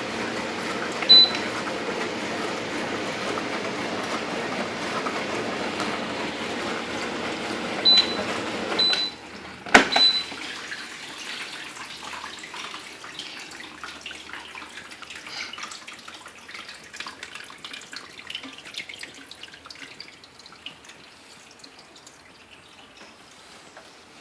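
Brastemp 12-place stainless dishwasher's spray arms washing, a steady rush of water that stops suddenly about nine seconds in. A sharp click and a few short high beeps come around the stop, then faint dripping and crackling as the water settles.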